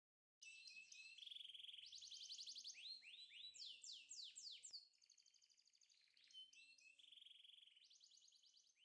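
Quiet bird song: fast high trills and runs of quick downward-sliding chirps, starting abruptly about half a second in, with a faint low hum beneath.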